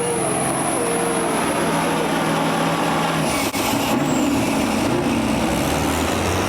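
Pulling vehicle's engine running loud and steady, its pitch shifting about three seconds in, with a high whine over it that stops at the same moment.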